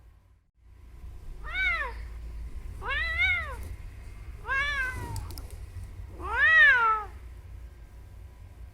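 Cat meowing four times, each meow a short call that rises and then falls in pitch, the last one the loudest.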